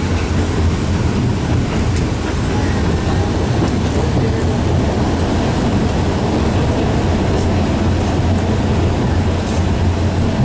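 Alishan Forest Railway train on the move, heard from inside a passenger coach: a steady low rumble of the running train with a few faint clicks.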